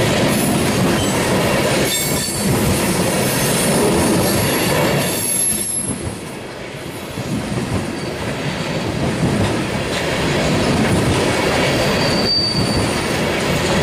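Freight cars of a loaded oil train rolling past with a steady rumble of steel wheels on rail. Brief high-pitched wheel squeals come about six seconds in and again near the end.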